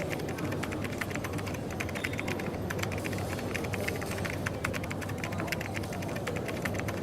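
Rapid, irregular clicking of typing on a keyboard over a steady low hum of coffee-shop background noise.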